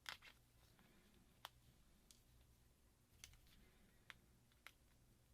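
Faint, irregular small clicks, about six of them, the first the loudest: hand tools and broken screen glass being worked off a phone's frame.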